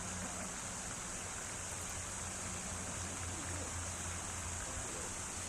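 Steady rush of flowing water, with a low hum underneath.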